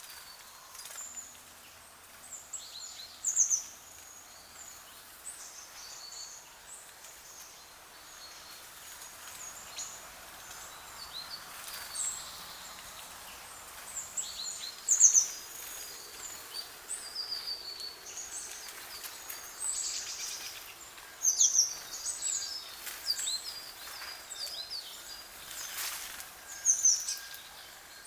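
Small birds chirping, with many short, high calls scattered irregularly over a faint steady outdoor hiss.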